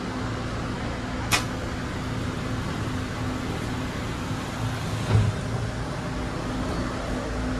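Steady running noise inside a moving passenger train carriage: an even rumble with a low hum. There is a sharp click about a second in and a dull thud around five seconds in.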